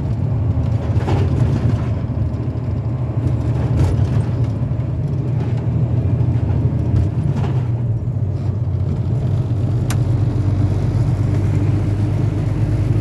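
A semi truck's engine and road noise at highway speed, heard from inside the cab as a steady low drone. There is a single sharp click about ten seconds in.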